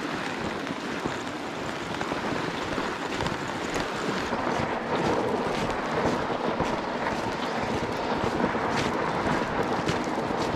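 Steady hiss of freezing rain falling, mixed with the crunch and scrape of footsteps and toboggan runners on snow, with scattered light ticks.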